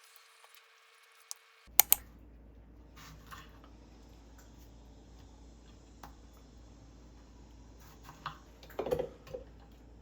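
Computer keyboard keys clicking in scattered taps: two sharp clicks about two seconds in, sparse keystrokes after, and a quick run of taps near the end.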